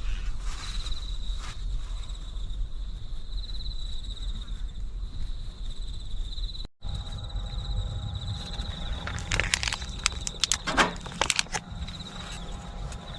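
Insects trilling steadily in a high, pulsing chirr over a low wind rumble on the microphone. Past the middle comes a brief break, and then a cluster of clicks and rustles.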